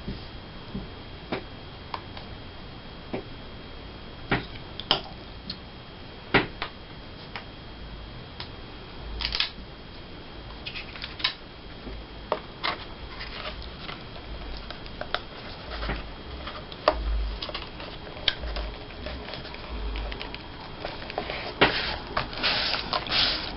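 Paper being handled on a tabletop: scattered soft clicks, taps and rustles as magazine cut-outs are moved and pressed down. Near the end comes a denser stretch of rubbing, a glue stick spread across paper.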